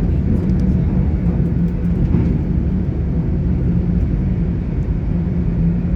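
GWR Class 800 IET train running along the line, heard from inside the passenger coach: a steady low rumble of wheels and running gear with a steady hum.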